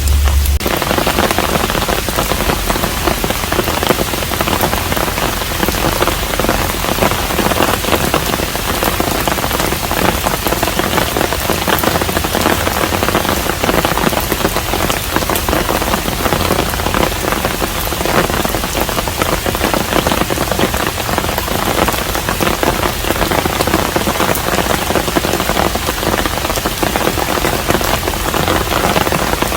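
Steady rain falling, a dense even patter of countless drops. A low hum cuts off about half a second in.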